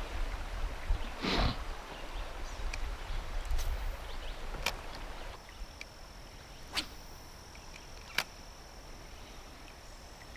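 Casting with a spinning rod and reel: a swish about a second in, then a few sharp clicks spaced a second or two apart. A low rumble and hiss sit under the first half, and a steady high thin whine runs through the second half.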